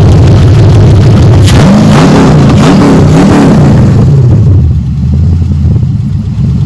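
LS V8 engine in a swapped Cutlass Supreme running, with three quick rises and falls in revs from about a second and a half in. It then settles to a quieter, steady idle. This is the engine's first run on a freshly installed wiring harness.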